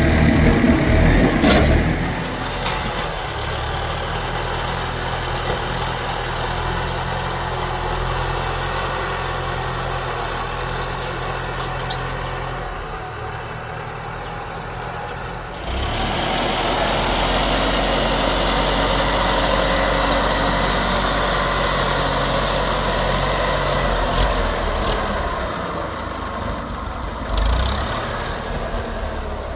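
An engine running steadily, its level stepping up a little past halfway through.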